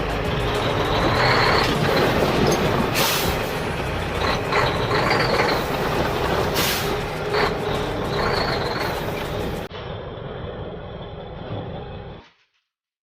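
Heavy truck engine running, with several short hissing bursts like air brakes. The sound drops in level about ten seconds in and fades out shortly after.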